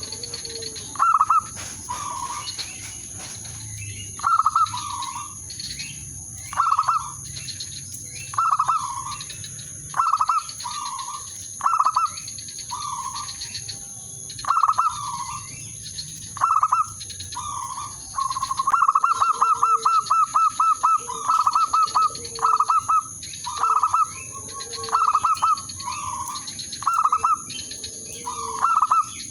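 Zebra dove (perkutut) cooing. Short, bubbling coo phrases repeat every second or two, with a fast rattling run of notes about two-thirds of the way through. This is a decoy (pikat) bird calling to draw in rival males. A steady high-pitched tone runs behind it.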